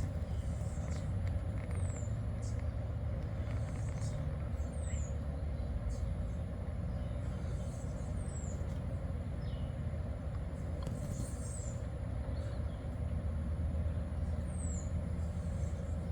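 Steady low rumble of distant traffic outdoors, with a short, high, falling chirp repeating about every three seconds.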